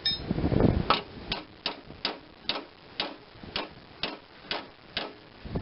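Tool working the bent steel flange of a mower deck flat: some scraping and handling at first, then a run of about a dozen light, evenly spaced metallic clicks, about two a second.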